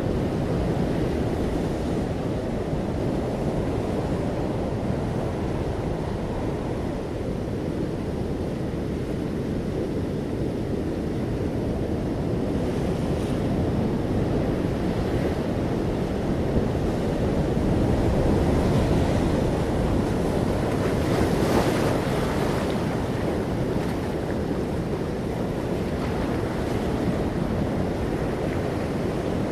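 Ocean waves washing continuously onto a shore, swelling with a larger wave breaking a little past two-thirds of the way through.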